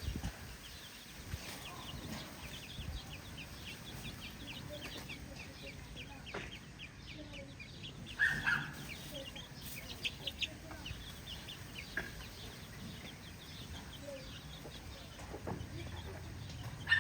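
A flock of chickens clucking, with many short high calls throughout and louder calls about eight seconds in and again near the end.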